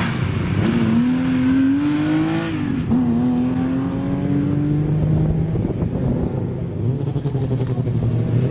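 Slalom race car's engine accelerating hard, its pitch climbing, dropping at a gear change about three seconds in, then climbing again. It eases off and picks up once more near the end.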